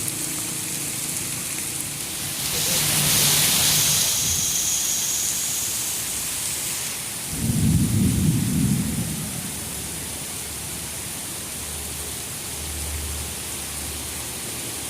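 Heavy rain pouring with a steady hiss that swells for a couple of seconds about three seconds in. Around the middle a low rumble of thunder lasts about a second and a half and is the loudest moment.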